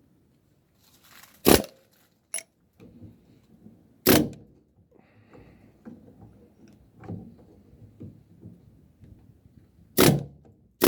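Hand-tool work on a metal part clamped in a bench vise: three loud, sharp knocks, about 1.5 s in, about 4 s in and near the end, with small clicks and rattles between them.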